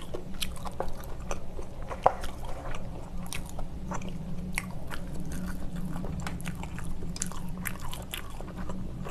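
A person chewing spicy tteokbokki, soft chewy rice cakes in sauce, close to the microphone: a steady run of small wet clicks and smacks over a low steady hum.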